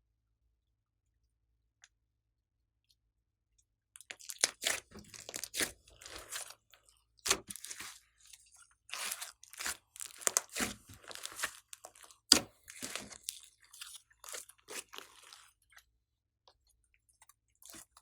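Slime being worked by hand, crackling and popping with crunchy clicks. It starts about four seconds in, runs in uneven clusters and stops shortly before the end, with a few more pops at the very end.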